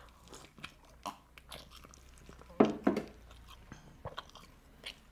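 Close-miked biting and chewing into a whole roast chicken: wet smacking mouth sounds and crunchy bites, with a louder burst about two and a half seconds in.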